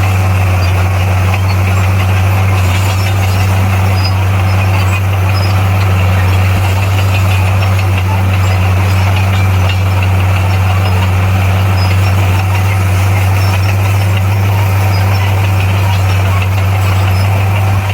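Bulldozer's diesel engine running steadily and loudly at an even pitch, with no change in speed.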